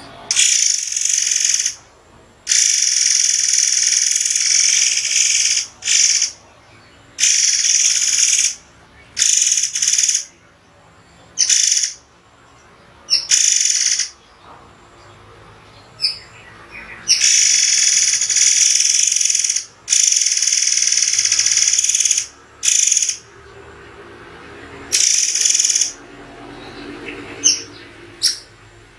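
A murai air songbird singing loud, sharp, high-pitched phrases with short pauses between them. These are the piercing 'tembakan' notes prized in songbird training recordings.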